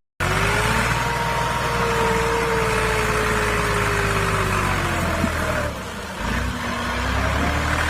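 Small motor of a homemade mini tractor running steadily. Its whine slowly falls in pitch, sags with a dip in level about six seconds in, then climbs again near the end.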